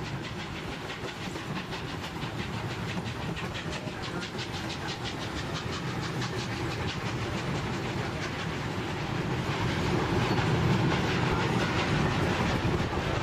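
Durango & Silverton narrow-gauge train running on the rails, heard from aboard a passenger car: a steady rumble with a fast, even clatter, growing louder about ten seconds in.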